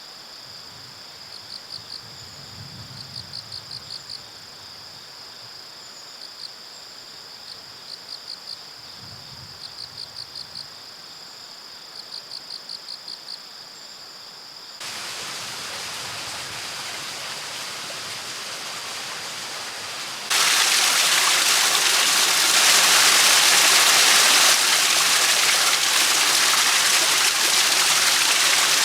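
Insects trilling and chirping in steady high pulsed groups. About halfway through the sound cuts abruptly to running water with a steady rush, which grows louder and fuller after a few more seconds.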